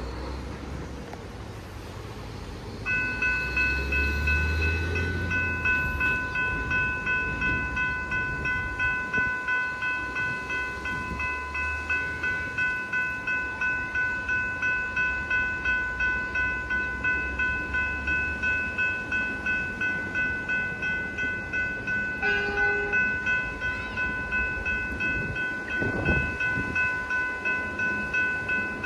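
Level crossing electronic bell starting about three seconds in as the crossing activates, then ringing steadily at about two strokes a second.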